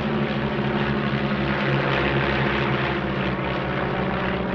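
Stampe SV.4 biplanes flying in a three-ship formation, their piston engines and propellers droning steadily, swelling slightly in loudness midway.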